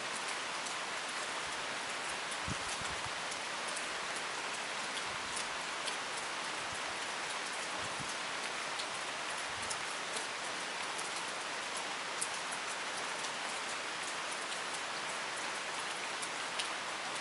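Steady rain, taken to be typhoon rain: an even hiss with scattered drops ticking sharply.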